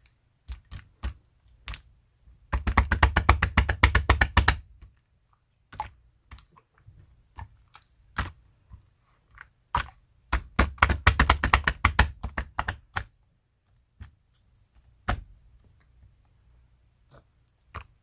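Two runs of rapid tapping clicks, about ten a second, each lasting two to three seconds, with scattered single clicks and knocks between them.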